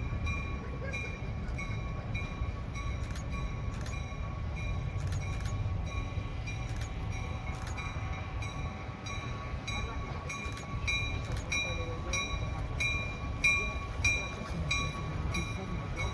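Train rumbling with a bell ringing repeatedly over it, settling into about two strikes a second partway through.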